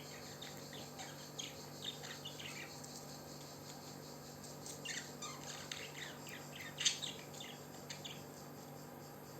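Pet parrot chirping and squawking in rapid short calls, in two spells, with the loudest call about seven seconds in.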